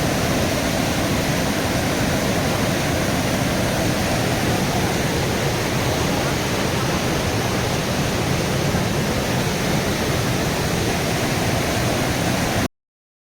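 Steady rushing water, like a mountain stream or waterfall, cutting off suddenly near the end.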